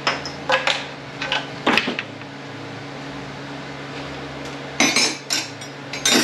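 Hand tools and steel transmission parts clinking and clanking against each other in short separate knocks: a handful in the first two seconds, then a quiet stretch, then another cluster near the end.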